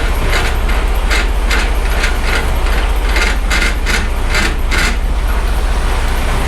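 Semi-trailer landing gear being cranked up by hand, its crank and gearbox clicking in irregular strokes about two to three times a second. A steady low rumble runs underneath.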